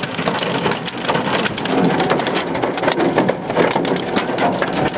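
Hail and heavy rain pelting a car's roof and windshield, heard from inside the car as a dense, rapid clatter of small impacts.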